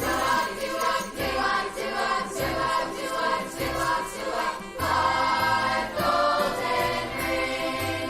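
Christmas music performed by a choir with instrumental accompaniment.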